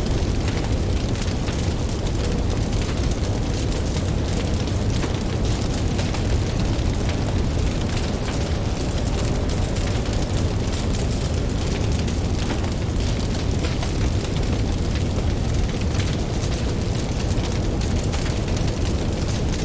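Campfire crackling, with many small pops and snaps scattered through, over a steady low rumble of ocean waves.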